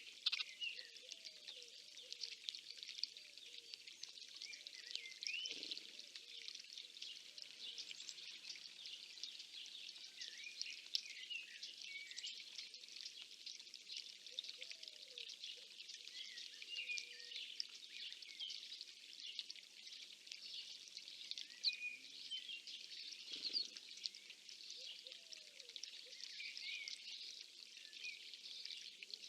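A chorus of many songbirds singing and calling at once: a dense wash of overlapping high chirps and trills, with a few lower calls among them.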